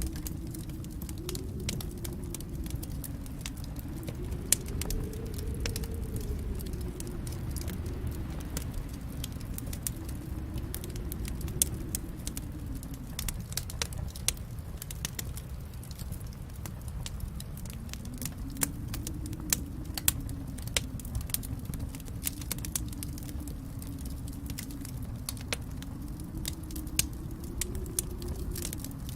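Wood fire in a fireplace crackling: a steady low rumble of flames under frequent sharp pops and snaps, with a few louder pops scattered through.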